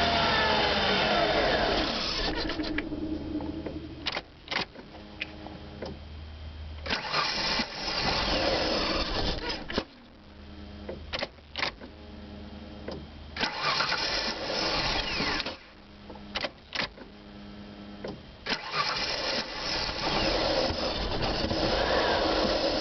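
Vehicle engine being cranked with the starter again and again, in loud bursts of a few seconds, a hard start. Quieter stretches between the attempts are broken by sharp clicks.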